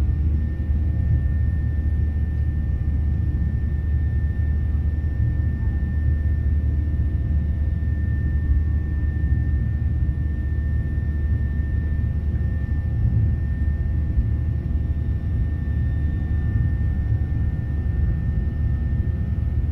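Cabin noise of a Boeing 737-800 with its CFM56 engines running steadily at low power: a deep, even rumble with a thin, steady high whine over it.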